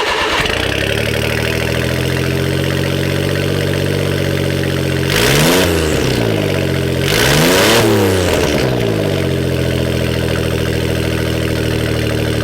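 1999 Suzuki Carry kei truck's small three-cylinder engine idling through its custom exhaust, revved twice, about five and seven seconds in, each rev rising and dropping back to idle.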